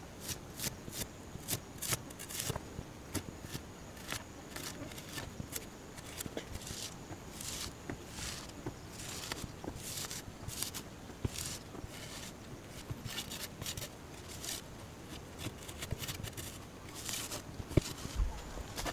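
Irregular short rustles, scrapes and snips of hand work with natural building material, coming in quick uneven clusters.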